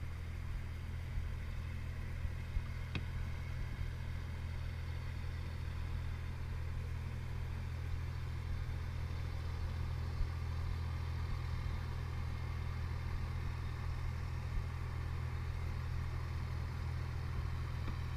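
2016 Vauxhall VXR's exhaust at a steady idle: a low, even hum that does not rise or fall, with no revving.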